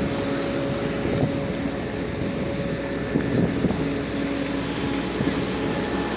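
Steady hum and rush of a parked jet airliner running near boarding passengers, with a few level droning tones.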